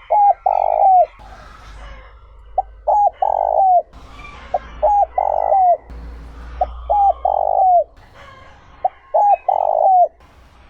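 Spotted dove cooing its three-part phrase, a short note, a double note, then a long note that falls at its end, repeated five times about two seconds apart.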